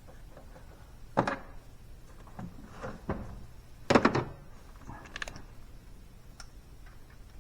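A few separate knocks and clunks over a low background hum, the loudest about four seconds in.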